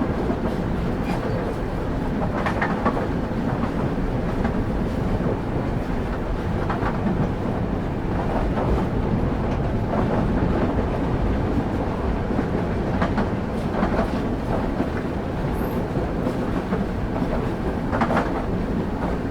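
Train wheels rolling on the rails: a steady low rumble broken by irregular sharp clacks as the wheels pass over rail joints.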